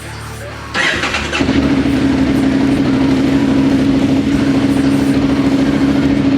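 KTM 890 Adventure R motorcycle engine starting: a short burst of cranking and catching about a second in, then settling into a steady running note.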